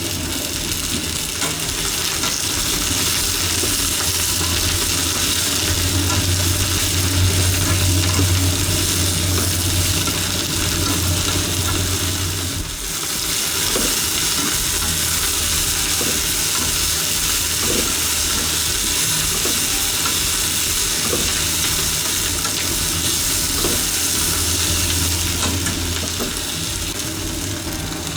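Long green onion and atsuage (thick fried tofu) sizzling as they are stir-fried in a pan, a steady frying hiss with now and then a faint knock of the utensil, over a low steady hum. The sizzle eases briefly about halfway through.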